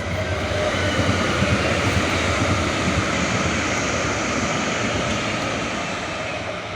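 Vehicle and road noise that swells over about the first second and then slowly fades toward the end.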